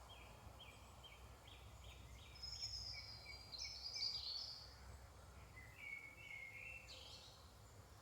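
Woodland songbirds singing in the morning chorus: a run of short repeated notes, about three a second, then a louder, higher warbled phrase near the middle and another short phrase near the end, over a faint low background rumble.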